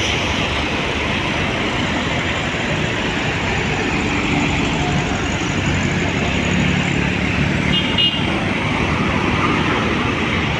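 Steady noise of road traffic passing close by: engines and tyres, with a brief horn toot about eight seconds in.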